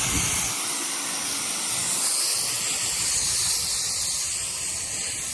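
Water spraying steadily as a car is rinsed down, a continuous even hiss.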